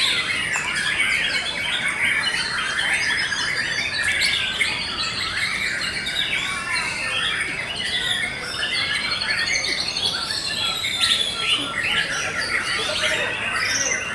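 Several white-rumped shamas singing at once, a dense tangle of overlapping whistles, trills and harsh calls with no break.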